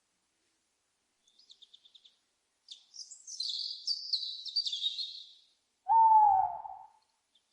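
High songbird chirping and a short burst of busy song, then one loud owl hoot about six seconds in: a single note lasting about a second that slides slightly down in pitch.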